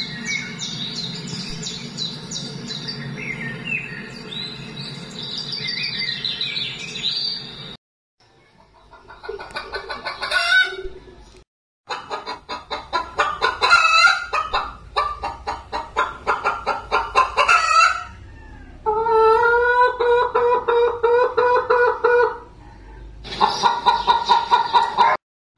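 A run of short farm-bird clips cut apart by brief silences: small birds chirping for the first several seconds, then chickens clucking in quick repeated calls and a rooster crowing with long held calls.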